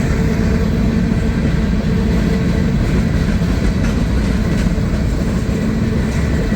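Freight cars of a long CSX mixed freight train rolling past close by: a loud, steady rumble of steel wheels on rail, with a faint steady tone over it.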